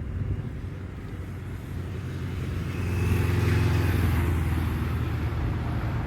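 Motor vehicle engine running close by with a low hum and tyre hiss, growing louder and loudest from about three seconds in.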